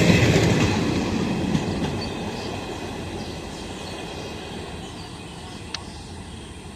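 Indian Railways train running past on the track and fading away into the distance, its wheel and rail noise dying down steadily. A single sharp click sounds near the end.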